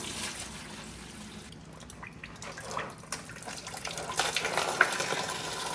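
Water trickling and dripping, getting busier and splashier over the last couple of seconds.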